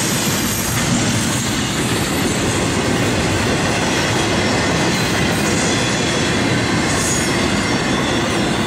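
Wheels of the last intermodal flatcars of a freight train rolling past on the rails, a steady loud rolling noise.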